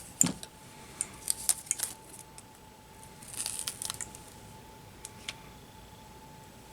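Small tools and parts being handled on a workbench: a sharp knock at the start, a run of light clicks and taps about a second in, a brief rustle around three and a half seconds, and two small clicks near five seconds. A faint steady high hum sits underneath.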